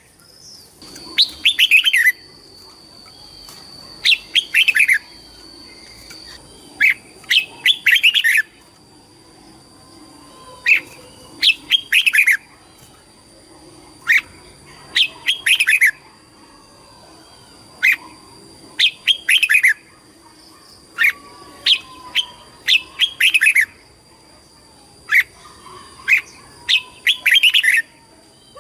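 Red-whiskered bulbul singing: a short phrase of quick whistled notes, repeated about eight times, once every three to four seconds.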